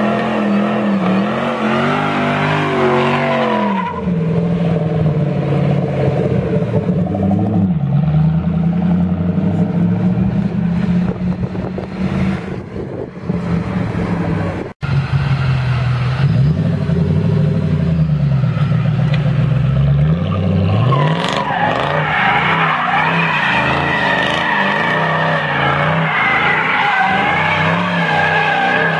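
1968 fastback car's engine revving up and down again and again, with a sudden brief break about 15 s in. From about 21 s its rear tyres squeal continuously under a burnout while the engine is held high.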